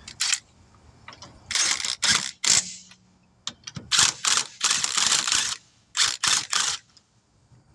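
Hand ratchet wrench clicking in several short bursts as lug nuts are run onto the wheel studs.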